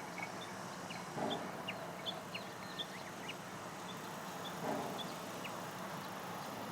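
Small birds chirping, with short high calls scattered throughout, and two louder, lower calls about a second in and near five seconds in.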